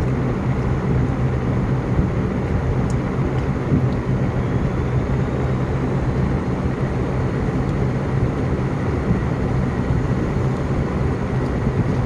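Steady low mechanical rumble with an even hum, like a running engine or motor, unchanging throughout.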